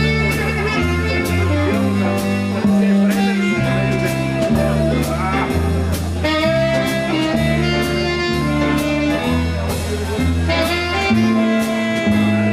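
Live jazz combo playing an instrumental passage: a walking double bass line under melody from saxophone and guitar, with a steady beat on cymbals.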